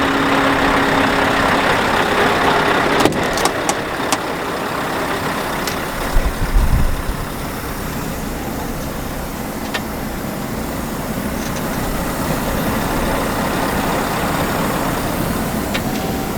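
Scania R520 V8 diesel truck engine idling steadily, with a few sharp clicks about three seconds in and a brief low thump about six seconds in.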